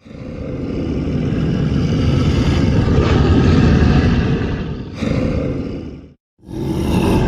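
Deep, rumbling creature roar, a designed sound effect, swelling up over the first couple of seconds. A second roar breaks in about five seconds in, cuts off a second later, and another starts just before the end.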